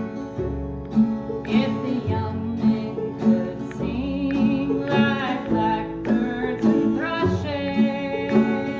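Acoustic folk music: a guitar plucked in a steady pulse, with a voice singing phrases over it.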